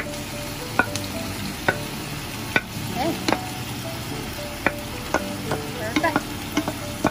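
Ground meat sizzling steadily in a hot oiled frying pan as a wooden spoon scrapes it off a plastic cutting board, with sharp knocks of the spoon and board against the pan every second or so, several in quick succession near the end.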